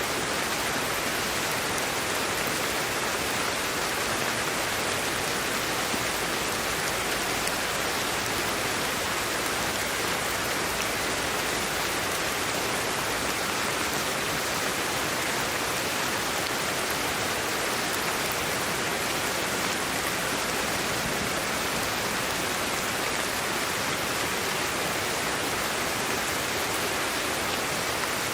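Steady sleep-aid white noise: an even, unbroken hiss, brighter in the upper range and thin in the bass, that never changes.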